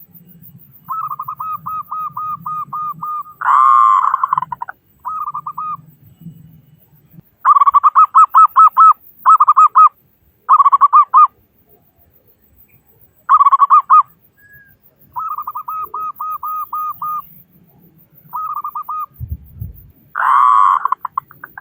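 Zebra doves (perkutut) cooing: phrases of about ten quick, even coos, broken by a few louder, fuller calls, with short pauses between phrases.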